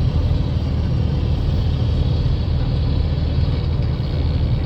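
Vehicle driving along: a steady low engine and road rumble.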